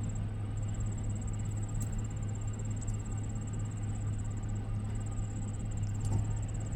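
Steady low drone of a vehicle driving along a dirt road, heard from inside the cab, with a faint high-pitched pulsing tone over it.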